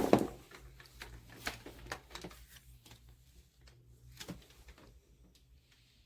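A short loud scuffing burst at the start, then scattered light clicks and knocks of things being handled, thinning out toward the end.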